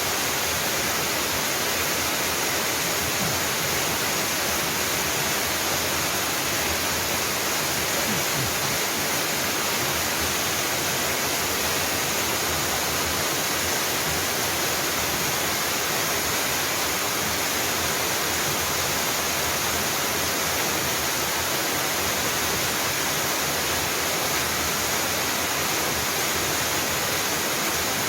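Waterfall: water pouring and splashing steadily onto rock, a dense unbroken rush.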